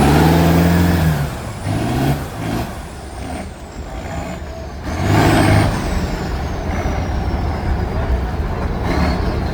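Heavy off-road truck engine revving hard and easing off in several bursts, the loudest in the first second, with a thin high whine gliding up and down above it.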